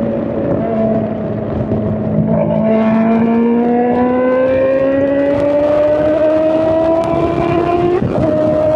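Honda CBR600's inline-four running through a straight-pipe exhaust under load, the revs climbing steadily for several seconds. Near the end the revs drop sharply, then hold at the lower pitch.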